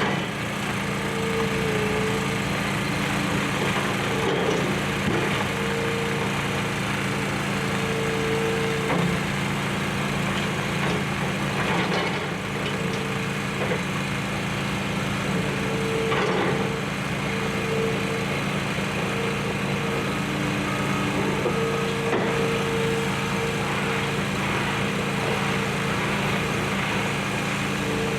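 Excavator's diesel engine running steadily, with a whine that keeps coming and going and a few scattered knocks and crunches of demolition.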